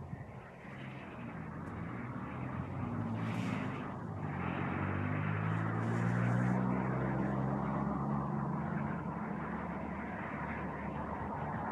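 A vehicle engine's hum passing by, growing louder to a peak about halfway through and then easing off slightly.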